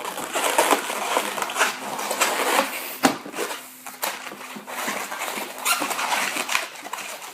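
Latex modelling balloons squeaking and rubbing as they are twisted and worked by hand, with a sharp snap-like stroke about three seconds in.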